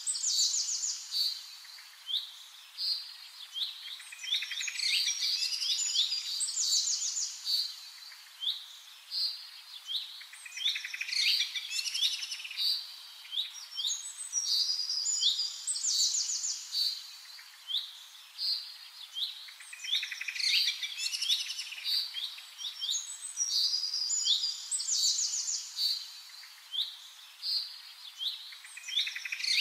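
Small birds chirping and singing with fast high trills, the same run of calls coming round about every ten seconds.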